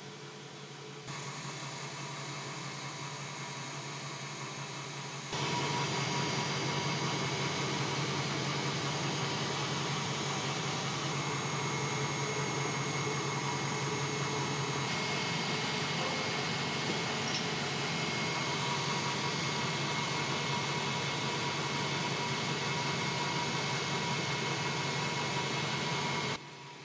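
A motor-driven machine running steadily with a low hum and a noisy whir. It grows louder in two sudden steps, about one and five seconds in, and cuts off abruptly near the end.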